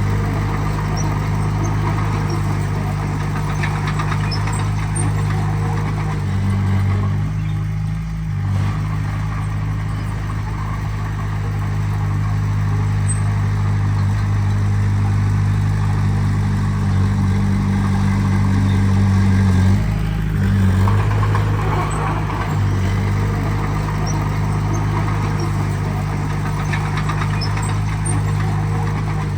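Heavy diesel engine of earthmoving equipment running steadily at a low pitch. Its note shifts briefly about eight seconds in and again about twenty seconds in.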